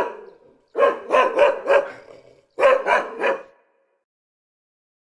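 A dog barking in quick runs of several barks: the tail of one run at the start, a run of about five barks about a second in, and a run of about four near three seconds, then it stops.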